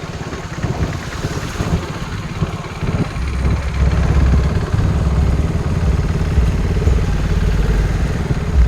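KTM RC 390's single-cylinder engine running, with a steady low rumble that grows louder about three seconds in.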